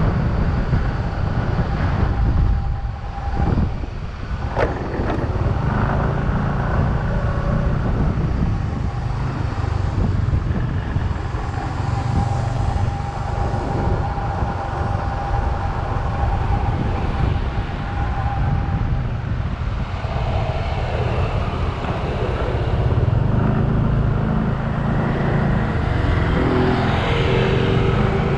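Motorcycle engine running steadily through city traffic, with other vehicles around it. A short sharp click comes about five seconds in.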